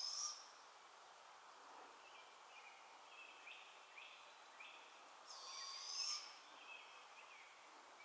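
Bird calls: two loud, high calls about five seconds apart, each under a second long, with a run of shorter, lower notes repeating about twice a second between them.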